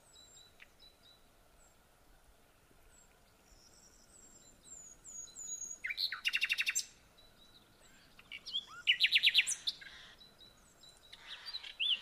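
Wild birds calling: faint high chips at first, then a run of short falling whistles, and two loud, rapid trills about six and nine seconds in, with more calls near the end.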